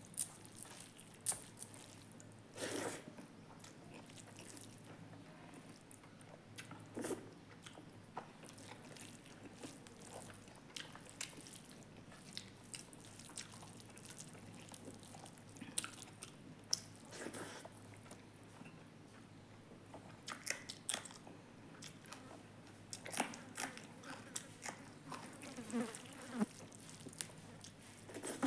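A person eating close to the microphone: irregular biting and chewing, with many small mouth clicks and crunches and a few longer, louder bites here and there.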